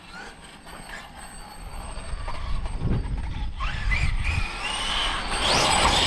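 Losi 5ive TE 3.0 electric RC truck driving up and getting louder, its motor whine rising about four seconds in over a low rumble of the tyres, with a loud rush of tyre and drivetrain noise near the end as it passes.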